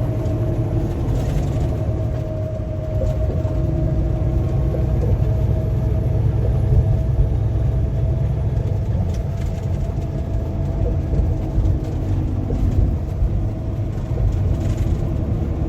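A vehicle driving at a steady speed: a continuous low engine and road rumble with a steady hum above it.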